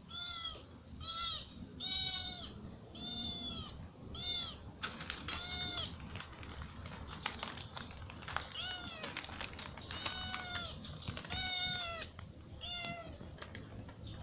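Young kitten meowing over and over: about eleven short, high-pitched meows, roughly one a second, each rising and falling in pitch.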